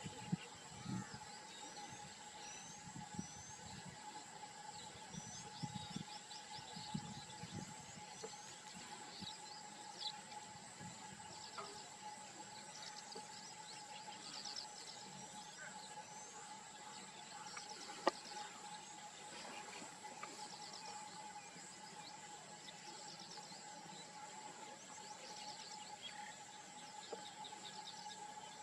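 Outdoor nature ambience: birds chirping repeatedly over a steady insect drone. There are a few soft low thuds in the first several seconds and one sharp click about eighteen seconds in.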